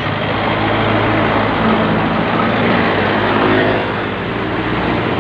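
Truck engine running steadily with a low hum and road noise.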